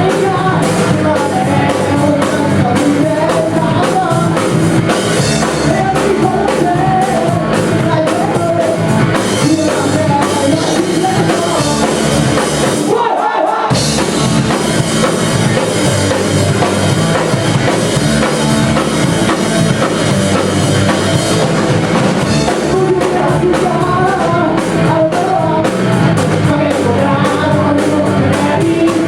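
Live rock band playing with a drum kit and singing, the music stopping dead for a moment about halfway through before coming back in.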